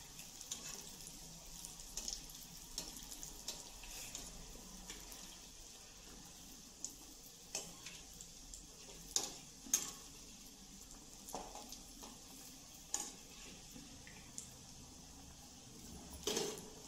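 Egg cutlets deep-frying in oil in a steel kadhai: a steady sizzle with scattered small pops. A few sharp clinks of a metal slotted spoon against the pan as the cutlets are turned, the loudest near the end.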